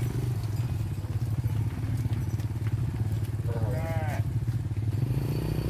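A small engine running steadily with a fast, even pulse. A brief call rises and falls once about three and a half seconds in.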